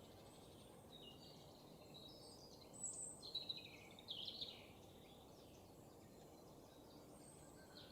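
Faint birds chirping over low background noise, with a short cluster of calls around the middle.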